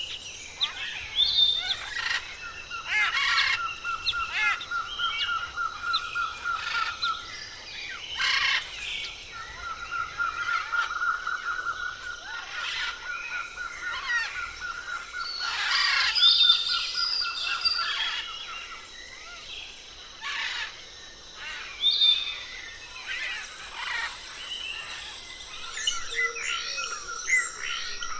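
Several forest birds calling at once: scattered chirps and whistles over a long, evenly pulsed trill that stops and starts again. A high, fast trill joins for a few seconds near the end.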